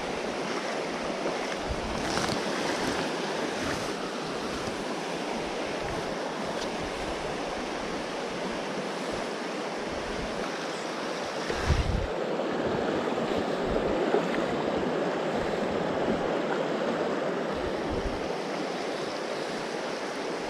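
Steady rush of flowing creek water, with wind buffeting the microphone in repeated low thumps.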